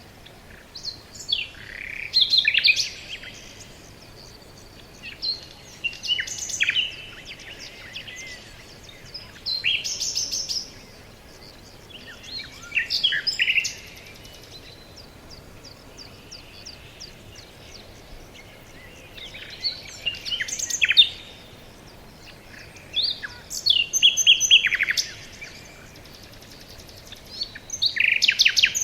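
Several songbirds singing in a forest, with short phrases of chirps and trills every few seconds over a faint steady background hiss.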